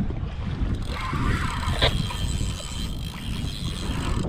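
Wind rumbling and buffeting on the microphone over water sloshing around a kayak at sea, with one short click about two seconds in.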